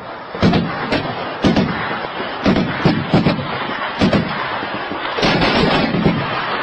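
Heavy gunfire: irregular shots, roughly one or two a second, each followed by an echoing tail.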